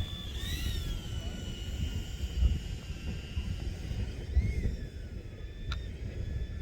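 Erupting volcanic vent heard across the valley: a low, irregular rumbling with stronger surges about two and a half and four and a half seconds in. A faint high whine rises and falls in pitch twice over it.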